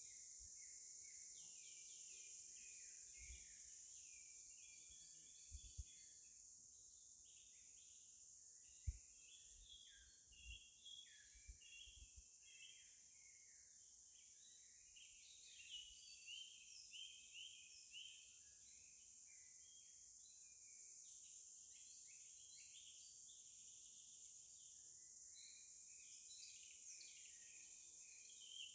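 Faint outdoor ambience of small birds chirping many short notes, over a steady high hiss. A few brief soft knocks fall in the first half.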